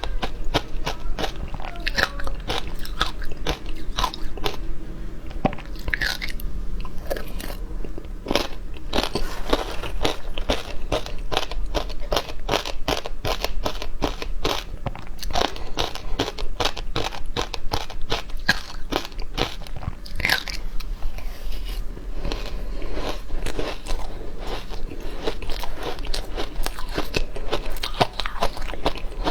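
Frozen matcha ice being bitten and crunched between the teeth, close to the microphone: a continuous, irregular run of sharp cracks and chewing.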